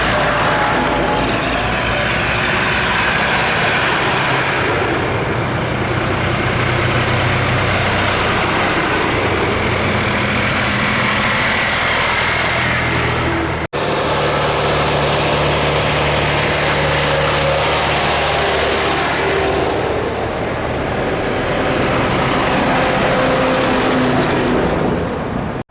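Loud, steady running of motor vehicle engines, with a low hum throughout. The sound cuts out for an instant about halfway through.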